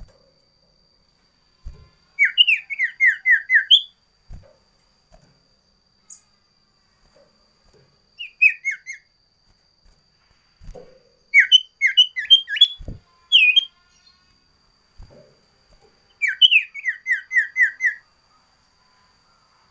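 Common iora (sirtu, cipoh) singing: four bursts of rapid, sharp whistled notes, mostly runs of six to eight quick falling notes, with one shorter phrase of rising notes. Soft low knocks fall between the phrases.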